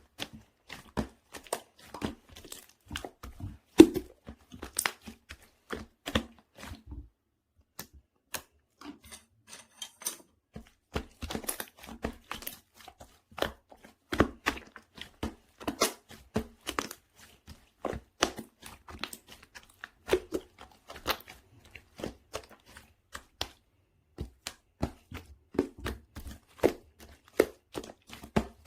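Green tea croissant slime being stretched, folded and squeezed by hand, giving irregular crackling, tearing and popping clicks, with a short pause about seven seconds in.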